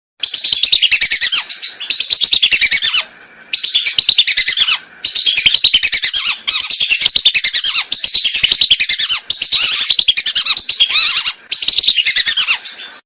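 Recorded whistling duck calls played as a hunting lure: loud, shrill whistled phrases of rapid notes, each falling in pitch. About nine phrases repeat in quick succession with brief breaks between them.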